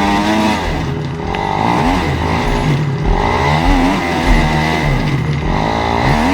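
Dirt bike engine revving in repeated throttle surges, its pitch climbing and dropping about five times, as the bike is worked up a steep climb.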